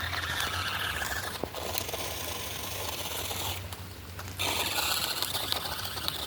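Small electric motor of a radio-controlled Polaris RZR toy whining as it is driven, its pitch rising and falling and cutting out twice, once briefly and once for nearly a second, over a steady hiss of rain.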